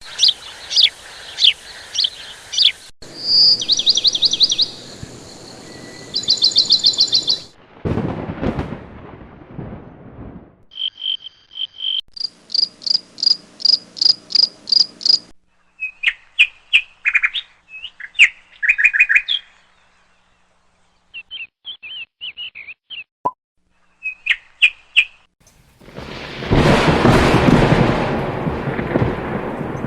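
Small birds chirping and calling in quick series of short, high notes, in several segments that change abruptly from one to the next. A loud rushing noise takes over for the last few seconds.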